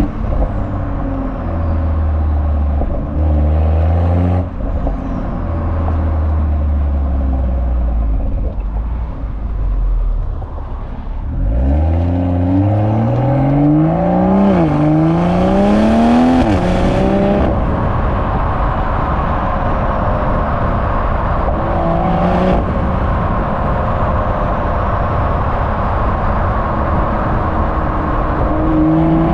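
BMW M340i's B58 turbocharged 3.0-litre inline-six running on the exhaust, with small rises in revs at first. About eleven seconds in it pulls hard, the pitch climbing steeply, dips briefly at an upshift, climbs again, then settles into a steady higher note.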